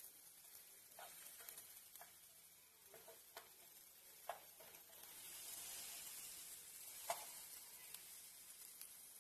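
Shrimp, bell peppers and onion sizzling faintly in a frying pan, with a slotted wooden spatula knocking against the pan several times as it turns them. The sizzle swells about halfway through, and the sharpest knock comes near the end.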